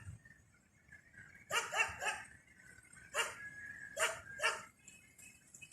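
Dog barking: a quick run of three barks, then three more single barks spaced out over the next couple of seconds.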